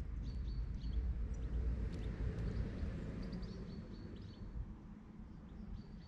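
Small garden birds chirping in short, high, clustered notes, three bursts of them, over a steady low rumble.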